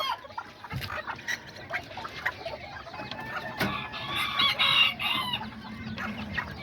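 Kikiriki bantam chickens clucking and calling in their pens, several birds at once, with a busier patch of calls about two-thirds of the way through and a few sharp clicks.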